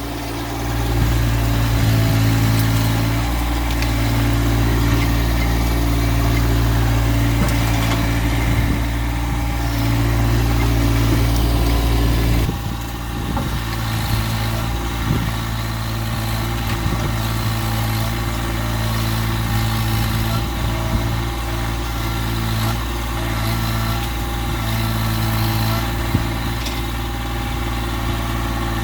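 Massey Ferguson GC1710 sub-compact tractor's three-cylinder diesel running steadily under work. Its note drops and eases suddenly about twelve seconds in.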